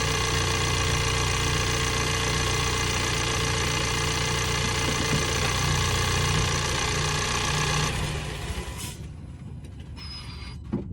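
2022 Ford Bronco's 2.3-litre EcoBoost turbocharged four-cylinder engine running steadily at idle, its sound dropping away sharply about eight seconds in. A short click follows near the end.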